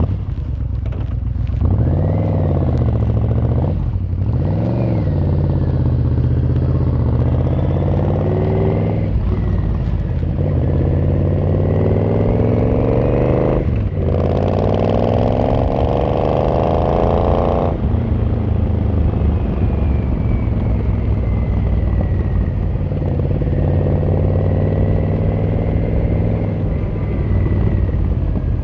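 Yamaha XVZ1300 Royal Star's V4 engine and exhaust pulling through the gears, the pitch rising in several long sweeps, each broken by a short dip at a gear change, then holding a steady cruise over the last ten seconds or so.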